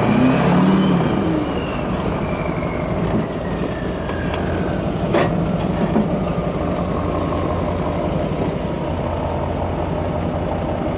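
Diesel engine revving briefly, its pitch rising and falling, with a high whistle gliding down over the first couple of seconds, then settling to a steady run.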